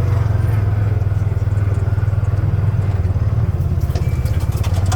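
ATV engine running steadily under way at trail speed, a loud even low drone, with a few light clicks or rattles near the end.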